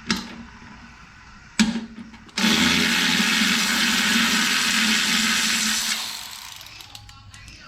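Electric power tool, such as a drill or powered ratchet on a socket extension, running steadily for about three and a half seconds after a brief blip, backing out a bolt, then winding down.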